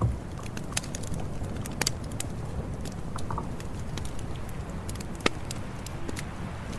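Campfire crackling: scattered sharp pops and snaps of burning wood over a low steady rumble of the fire. There is a louder pop right at the start and another about five seconds in.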